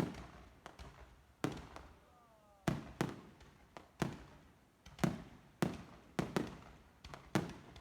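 Aerial fireworks shells bursting: about a dozen sharp bangs at uneven intervals, each trailing off in a rolling echo.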